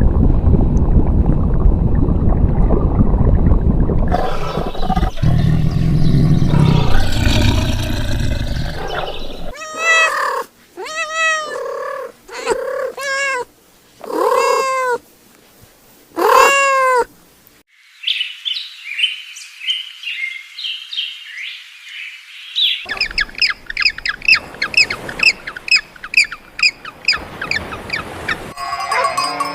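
A run of animal sounds. It opens with about nine seconds of a loud, low, rough noise. Then comes a cat meowing five times, each meow rising and falling. High, rapid chirping fills the last part.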